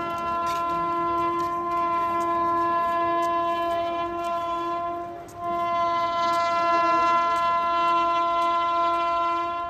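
Indian Railways electric locomotive horn sounding two long steady blasts on one pitch, the first about five seconds long, the second following after a brief break.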